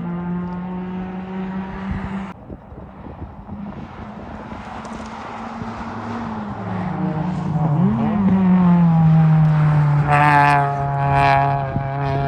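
Sports car engine running at fairly steady revs. Its note drops away about two seconds in, dips and climbs again about eight seconds in, then holds steady and grows louder near the end.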